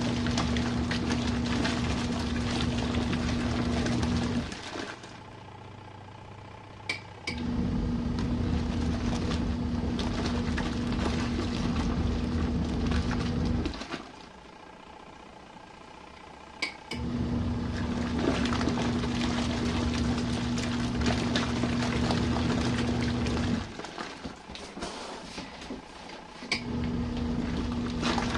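RV washing machine agitating its load: the motor hums for about six seconds, stops for about three, then starts again, pausing three times, with a click as it starts up again.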